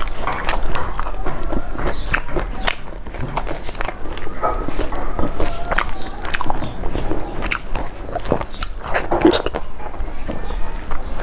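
Close-miked mukbang eating sounds: a full mouthful of rice and fish being chewed, with a dense run of wet mouth clicks and smacks.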